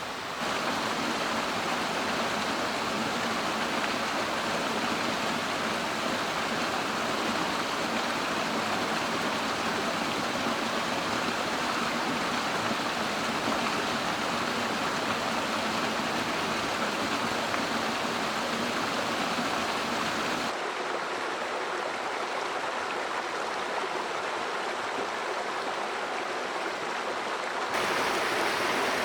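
Mountain stream water flowing steadily. The sound turns thinner about two-thirds of the way through and fuller again near the end.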